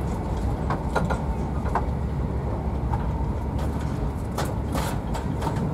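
Steady low rumble of a Class 43 HST passenger coach running on the track, heard from inside the carriage, with scattered light clicks and knocks.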